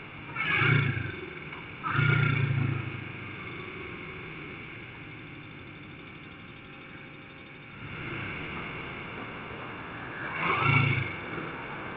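Motorcycle engines revving in three short bursts, the second the longest, over a steady background rumble.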